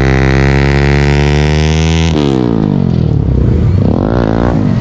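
Motorcycle engine under load, its pitch climbing steadily, then dropping sharply about two seconds in, followed by uneven revving that rises and falls.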